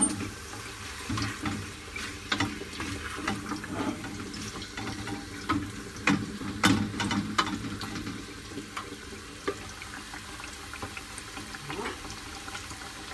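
Chicken pieces and tomato sauce sizzling in a stainless steel pot. A wooden spoon stirs and knocks against the pot for the first several seconds, then stops.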